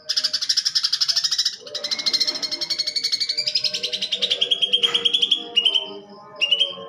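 Green leafbird (cucak ijo) singing loud, harsh, very rapid trilled phrases in imitation of fighting house sparrows. The trill breaks briefly twice and steps down in pitch, then ends with two short bursts. Fainter lower bird notes run underneath.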